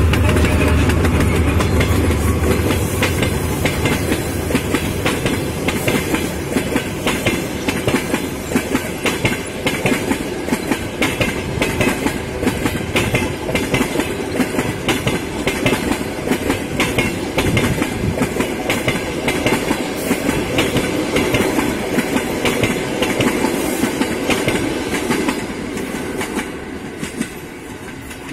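Diesel-hauled passenger train passing close by. The two-section diesel locomotive's deep engine rumble dies away in the first couple of seconds, and then the coach wheels clack rhythmically over the rail joints, fading near the end as the train moves away.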